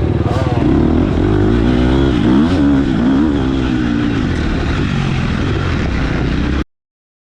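Motocross bike engine revving hard, its pitch climbing and dropping repeatedly as the throttle is worked. The sound cuts off abruptly near the end.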